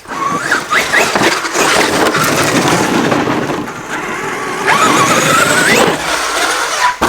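Traxxas X-Maxx electric RC monster truck running hard over dirt, its motor whining up in pitch several times as it is throttled, over a rough rush of tyre and ground noise.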